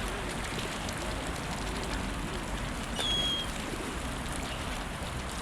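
Steady rushing noise, like water or wind, with a brief high chirp from a bird about three seconds in.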